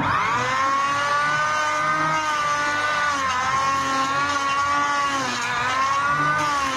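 Electric planer switched on, its motor spinning up quickly to a high steady whine, the pitch sagging slightly a few times.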